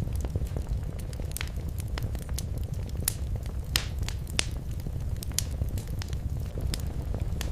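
Wood fire burning in a fireplace: a steady low rumble with irregular sharp crackles and pops, two of them louder a little past the middle.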